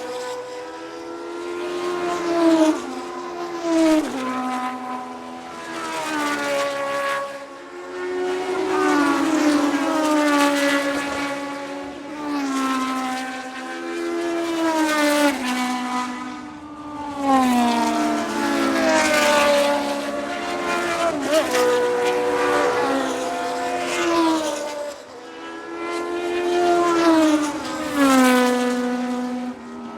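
Vintage Formula 1 race cars passing in quick succession at speed. Each engine's note sweeps down in pitch as the car goes by, with the pitch climbing again as the engines rev up between passes.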